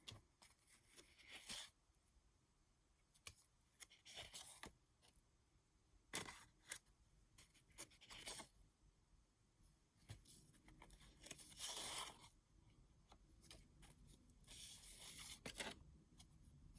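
Faint rustling and sliding of cardstock journal cards being handled and shuffled, in about six brief bursts with quiet gaps between.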